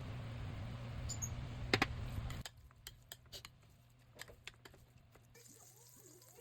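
A steady low hum with hiss, as from a stove or kitchen appliance, cuts off abruptly about two and a half seconds in. Scattered light clicks and clinks of kitchen utensils follow.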